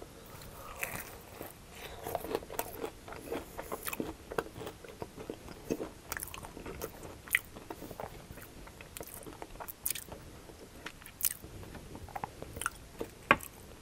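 Biting into and chewing a crispy breadcrumb-coated fried mashed-potato cake, close-miked. The crunching comes as many quick, irregular crackles, with one sharp, loud crunch near the end.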